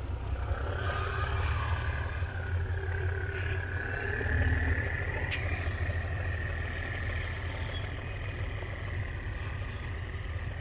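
Diesel train at low speed: a heavy low engine rumble with a long, thin, high squeal that starts about a second in and rises slightly in pitch, plus a single sharp click about halfway.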